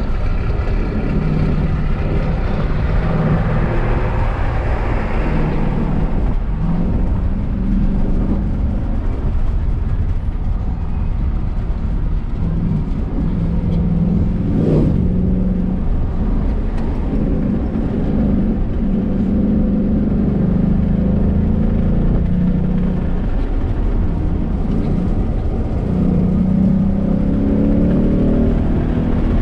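Car engine being driven hard, its note climbing and dropping again and again as the gears change, over steady road and wind noise. There is a short knock about halfway through, and the engine note rises near the end.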